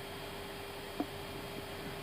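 Steady background hiss and hum in an Airbus A320 cockpit waiting on the runway, with one short click about a second in.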